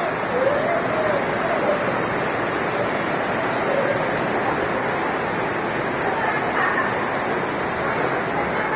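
Heavy rain pouring down steadily, a dense even rush of water, with faint voices under it.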